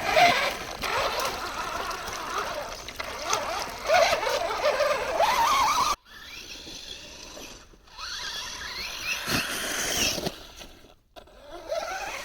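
Traxxas TRX-4 Sport RC truck's electric motor and gears whining, the pitch rising and falling with the throttle as it drives through slush. The sound cuts off suddenly about halfway through, and the rest is quieter with a fainter whine.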